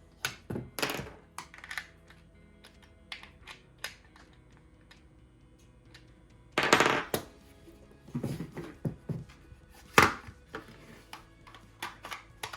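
Irregular clicks, knocks and clatters of small plastic and metal mini-chainsaw parts being handled and fitted together, loudest twice, about six and a half and ten seconds in, over faint background music.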